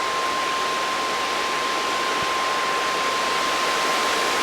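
A weather alert tone, the steady single-pitch warning alarm of NOAA Weather Radio, sounding continuously over the steady rush of storm wind and rain.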